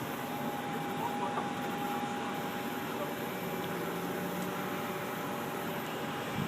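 Aerial ladder fire truck's engine and hydraulics running, a steady mechanical hum with a constant whine over it.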